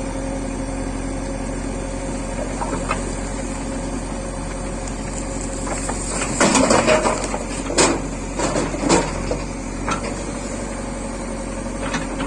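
Diesel engine of a JCB 3DX backhoe loader running steadily, with loud bursts of clattering and scraping about six to nine seconds in.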